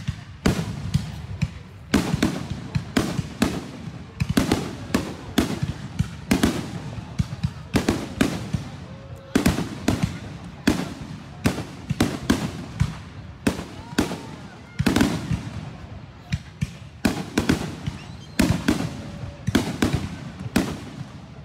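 Fireworks display: aerial shells bursting in quick succession, roughly two booms a second, each trailing off in echo. The barrage starts abruptly after a quieter lull.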